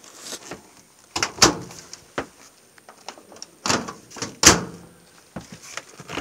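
A door in a motorhome being worked: two pairs of sharp clunks, one pair a little over a second in and a louder pair near the middle, with a few lighter knocks around them.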